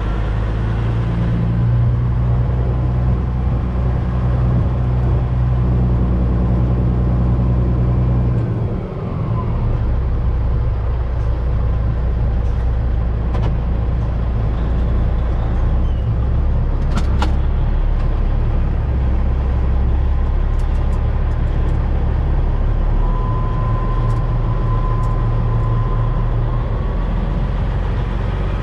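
Semi-truck's diesel engine running steadily at low speed while the truck is manoeuvred, with a short dip in the engine note about nine seconds in and a sharp click around seventeen seconds in.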